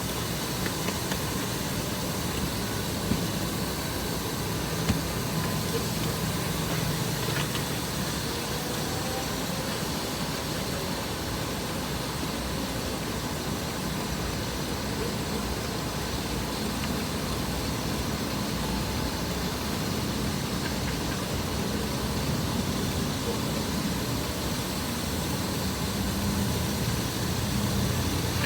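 A car engine idling steadily, a low hum under an even haze of air noise, with a few light clicks in the first few seconds.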